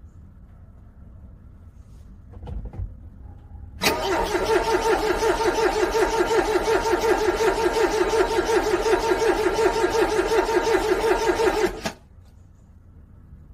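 A car's starter cranking a cold engine for about eight seconds with an even, rhythmic pulsing. The engine does not catch, and the cranking cuts off suddenly: a failed cold start in freezing weather.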